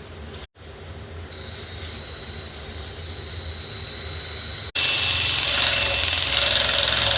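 Electric belt sander running with a steady motor hum and high whine. About two-thirds of the way through, the sound jumps abruptly to a much louder run with harsh sanding noise.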